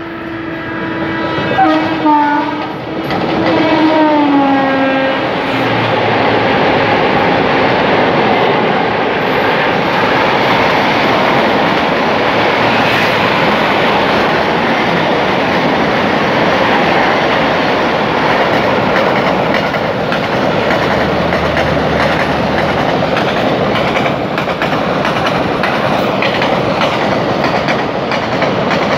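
A locomotive horn is sounding and drops in pitch about four seconds in as the locomotive passes. Then comes the steady rumble and clickety-clack of two trains passing each other, the August Kranti Rajdhani Express and a container freight train hauled by twin WAG-5 electric locomotives.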